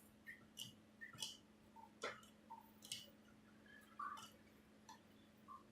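Near silence with faint, scattered clicks and soft taps, about a dozen spread unevenly, over a faint steady hum.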